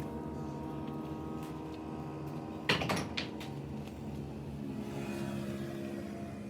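An engine running steadily at low revs, with a brief clatter of knocks a little under halfway through.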